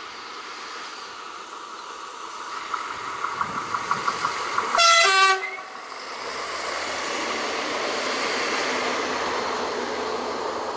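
An SNCF X 73500 diesel railcar sounds one short, loud horn blast about five seconds in as it approaches, after a quick run of short pulses. It then passes close by, its diesel engine humming under the wheel and rail noise, which builds and then fades near the end.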